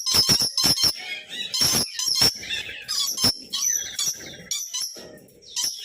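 Animal calls: high-pitched squeaking and chirping mixed with many sharp clicks, fading briefly near the end.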